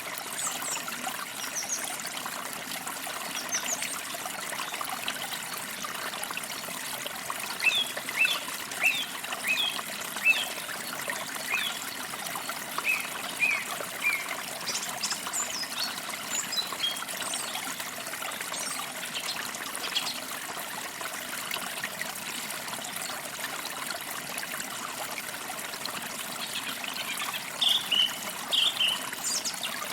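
A forest stream trickling steadily over stones, with birds singing above it: runs of short chirps and whistles, thickest about a third of the way in and again near the end.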